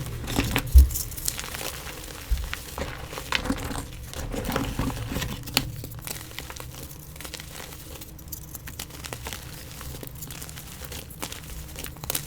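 Gym chalk being crushed and crumbled by hand: irregular crunches and crackles of powdery chalk breaking, with a sharp loud crunch just under a second in and another a little after two seconds.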